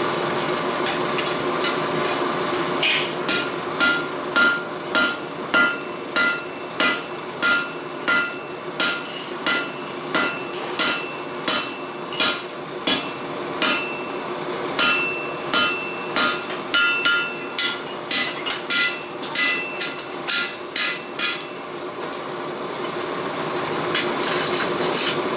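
Hand hammer striking hot steel on an anvil, about two blows a second, each with a short metallic ring, as the cutlass blade's tip is forged to shape. The blows stop a few seconds before the end, leaving a steady hum underneath.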